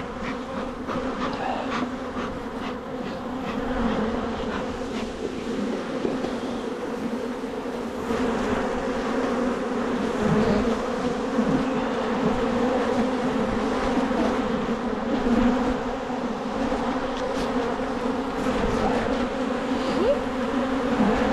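Loud, steady buzzing hum of a large number of honeybees around an opened hive. The colony is agitated: the beekeepers describe it as extremely aggressive in the summer dearth and are smoking it.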